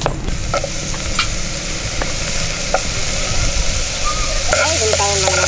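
Sliced red onion and spring onion sizzling in hot cooking oil in a pot, with a few light clicks. A drawn-out pitched call joins in near the end.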